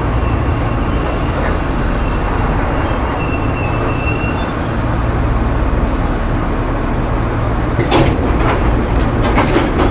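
Hankyu 3000 series electric train (set 3062F) running: a steady low rumble with a faint high whine, and several sharp knocks near the end.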